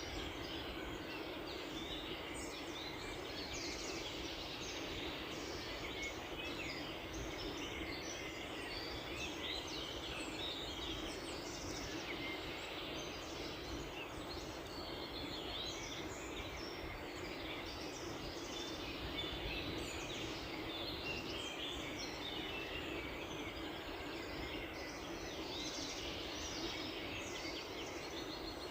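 Many small birds chirping and trilling at once, a dense, overlapping chorus of short high calls, over a steady low hum and background hiss.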